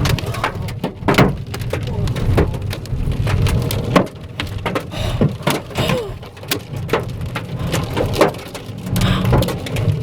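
Hailstones hitting a car's body and windshield, heard from inside the cabin: a dense, irregular run of sharp knocks over a low rumble from the car.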